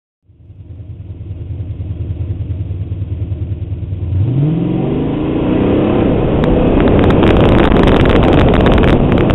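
Chevrolet Impala SS's LT1 V8 idling with a steady pulse, then launching about four seconds in: revs rise sharply under hard acceleration and the engine stays loud at full throttle, with tyre and wind noise building. Heard from a camera mounted low behind the front wheel.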